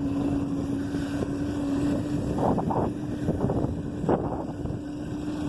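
Motorcycle engine running at a steady speed, one even engine note, with wind rushing over the microphone.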